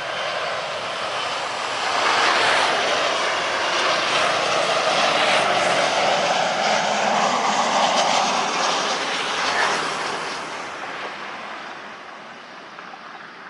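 Jet airliner taking off close by: the engine roar builds over the first two seconds, stays loud for about eight seconds, then fades as the aircraft climbs away.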